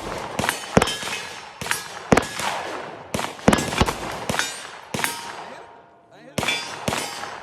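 Gunfire on a shooting range: a quick, irregular string of shots, some followed by the ringing clang of hit steel targets, pausing for about a second near the end before the shots resume.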